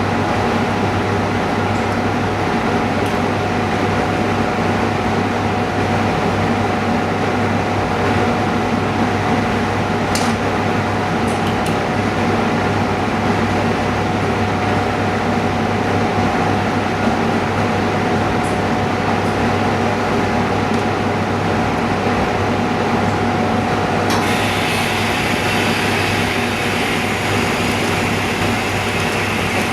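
Steady mechanical hum of running machinery, with a constant low drone and a steady higher tone. About 24 seconds in, a hiss joins in and carries on.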